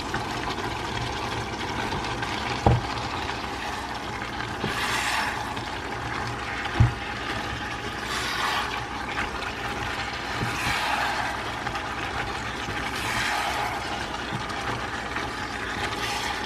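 Beef and vegetables stir-frying in a pan: a steady sizzle that swells every few seconds as the food is stirred. A utensil knocks sharply against the pan twice, about 3 and 7 seconds in.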